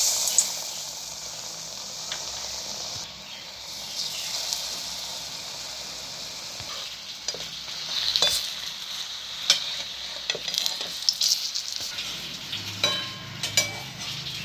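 Medu vada (urad dal fritters) deep-frying in hot oil in a pan: a steady sizzling hiss, broken by a number of sharp clicks, more often in the second half.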